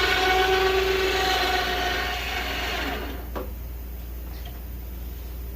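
Electric winch motor on a quad running with a steady whine, stopping about three seconds in, followed by a single click.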